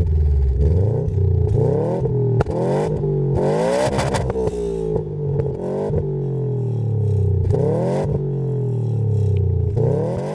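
Subaru Impreza's turbocharged flat-four engine being revved over and over, the pitch climbing and dropping about a dozen times, heard close to the tailpipe, with a few sharp cracks between revs.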